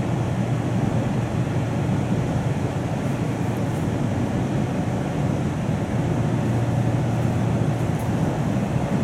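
Steady running noise inside the passenger car of a JNR-era express-type electric multiple unit under way: an even, low rumble that holds level throughout.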